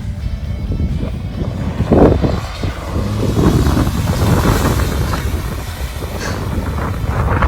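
Off-road truck driving on a trail, its engine running with a low, steady rumble.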